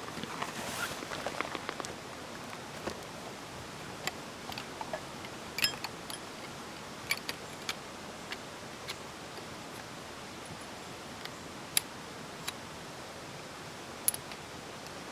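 Parts of a Bundok firewood stand being fitted together during assembly: a few seconds of rustling, then scattered sharp clicks and clinks, single and spaced seconds apart, over a steady background hiss.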